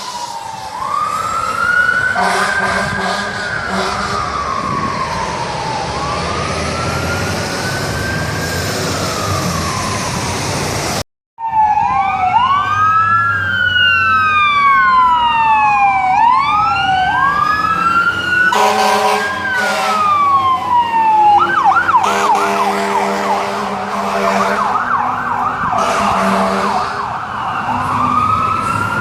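Emergency vehicle sirens. A slow rising and falling wail is followed, after a sudden cut, by quicker wails and then a fast warbling yelp. Repeated horn blasts sound over a steady low engine rumble.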